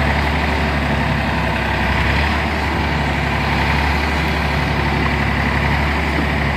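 Sonalika DI 50 tractor's diesel engine running steadily at a low, even drone.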